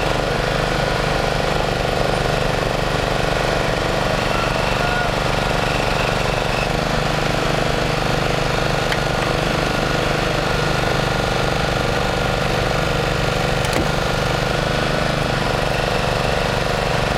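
A motor vehicle engine idling steadily, with an even hum that does not change.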